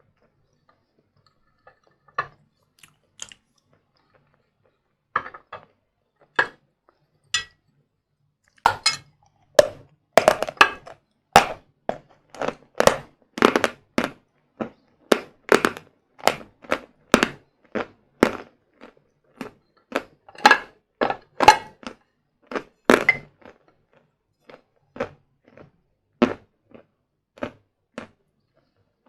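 Hard sawn Vatutin chalk being bitten and chewed close to the microphone: a run of sharp crunches, sparse at first, then about two a second through the middle, thinning out near the end.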